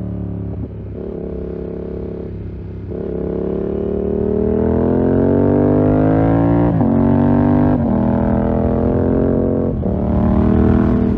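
Yamaha MT-07's parallel-twin engine through a full SC-Project 2-1 exhaust, accelerating hard. The engine note climbs steadily, then is broken by quick upshifts about seven, eight and ten seconds in, each a sudden drop in pitch before it climbs again.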